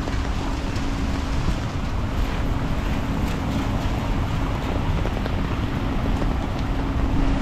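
Rainy city-street ambience: a steady hiss of rain over a continuous low rumble, with a steady low hum that drops out briefly a few times.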